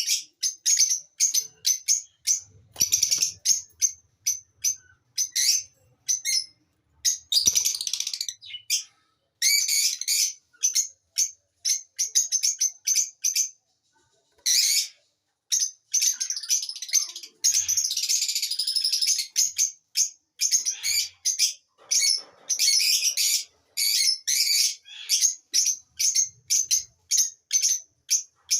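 Lovebirds chirping and chattering: a quick string of short, high chirps with a few longer chattering runs, pausing briefly about halfway through.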